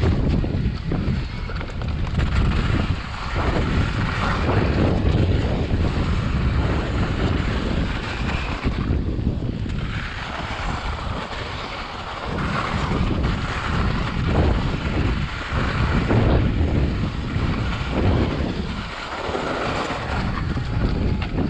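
Wind buffeting the microphone: a loud, rumbling gusty noise that swells and eases irregularly.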